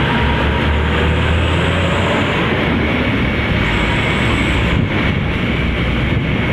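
Steady vehicle running noise: a low engine rumble under road and wind noise.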